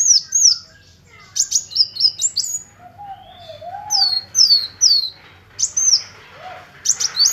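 Kolibri wulung sunbird calling: a series of sharp, high, downward-sweeping chirps in quick runs of two or three, with a brief lower warbled note about three seconds in.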